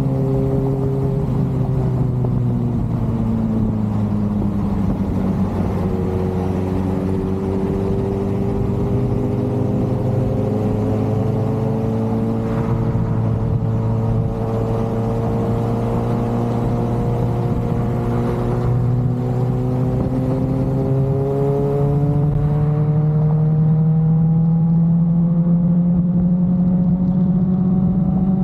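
Sport motorcycle engine running under way. Its pitch drops a couple of seconds in, then climbs slowly as the bike gathers speed, and steps up to a higher, steady pitch near the end.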